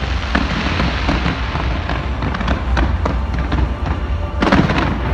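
Fireworks going off in a rapid run of bangs and crackles, with the biggest burst near the end, over loud music.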